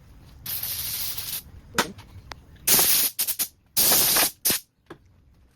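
Spray hissing in four short bursts, each starting and cutting off sharply: the first lasts about a second, the others about half a second each. A few light clicks fall between them.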